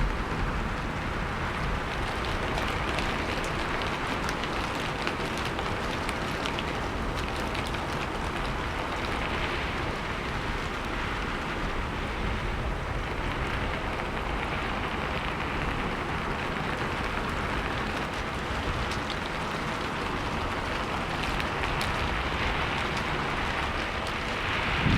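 Steady rain falling, with many small drop patters against a continuous hiss.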